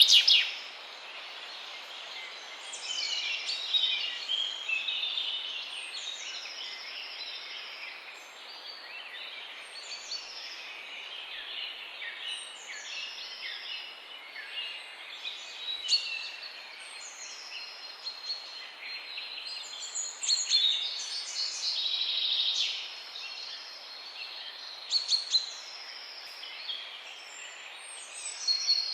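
Several songbirds singing and calling together, one of them repeating a short high call every second or two, over a steady background hiss.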